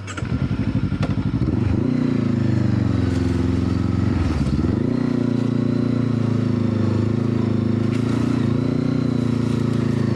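Motorcycle engine running close by, its revs picking up about two seconds in, dropping briefly around the middle, then rising again and holding steady.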